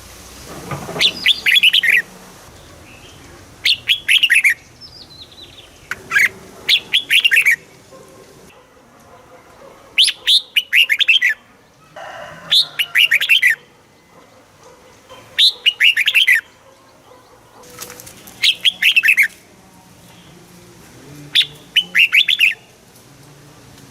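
Red-whiskered bulbul singing: short phrases of quick, clear whistled notes, about eight phrases, one every two to three seconds.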